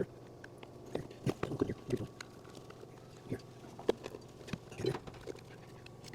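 Irregular metallic clinks and knocks from hand tools and small metal parts being handled during engine reassembly, a dozen or so short hits spread unevenly over a faint steady hum.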